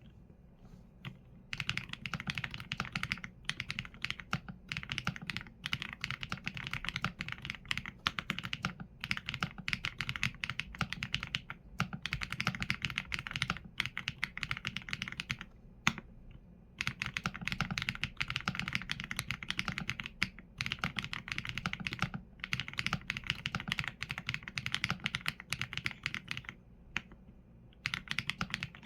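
Typing on a Qsenn A75 mechanical keyboard with Leobog Graywood V4 linear switches and PBT keycaps: dense runs of fast keystrokes, broken by short pauses about a second in, around nine and sixteen seconds in, and near the end.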